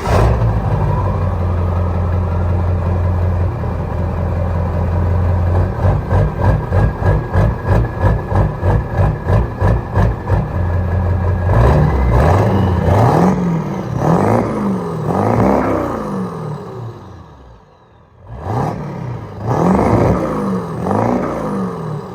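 Bone-stock Ford 7.3 L Powerstroke turbo-diesel V8 running, with a stretch of fast, even pulsing, then revved up and down in a series of quick blips, with a short break partway through.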